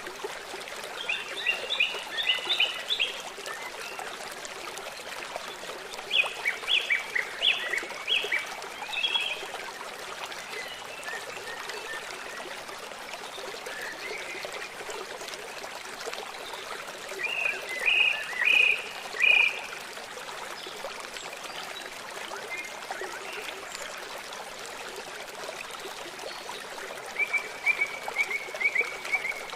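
Birds singing in short bursts of quick repeated high notes, four times, over the steady rush of running stream water.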